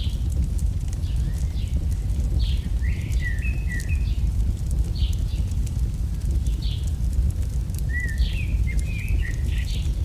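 AI-generated campfire ambience: a steady low rumble of fire with fine scattered crackles. Birds chirp over it in short strokes about every second or so, with two brief warbling phrases, one about three seconds in and one near the end.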